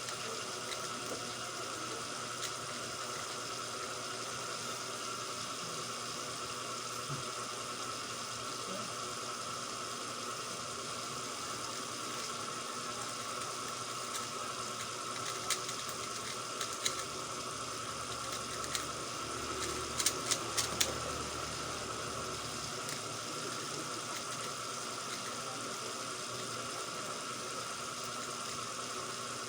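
Steady background hiss with a few sharp clicks of a 3x3 speedcube's layers being turned, including a quick run of clicks about two-thirds of the way through.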